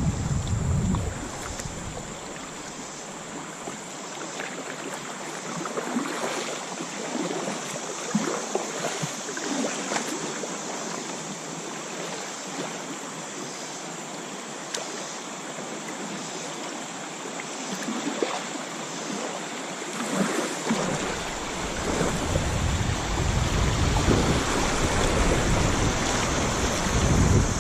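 Shallow river water rippling and rushing around a kayak. About three quarters of the way through, a low rumble of wind on the microphone sets in.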